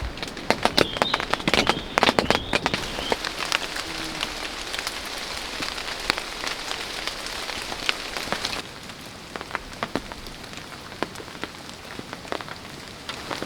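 Rain falling, with sharp loud drop impacts in the first few seconds, then a steady hiss of rain that suddenly drops to a softer level a little past halfway, with scattered single drops tapping.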